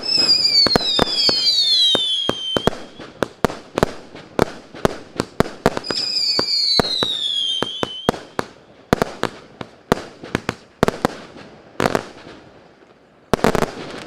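100-shot, 0.8-inch firework cake (MS134 'Wind') firing: a rapid string of sharp launch shots and bursts, with falling whistles at the start and again about six seconds in. The shots thin out toward the end, then a couple of loud bangs close it.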